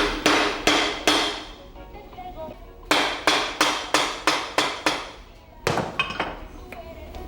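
Boot maker's hammer striking in quick runs of blows, about three a second: four, then a pause, then about seven, then two more near the end, each with a short ring.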